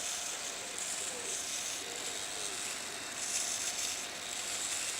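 Small hobby servos of a two-axis GoPro camera gimbal whirring in four short bursts about a second apart as they correct the camera's tilt, over a steady hiss and a faint steady tone.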